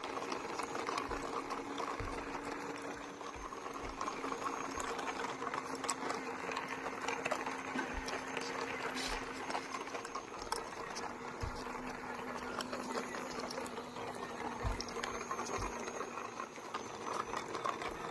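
Small battery-powered DC motor of a homemade toy train running steadily with a whirring hum, with a few faint low knocks.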